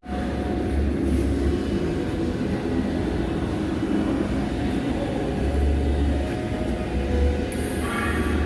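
Steady low machine rumble and hum, with a short hiss near the end.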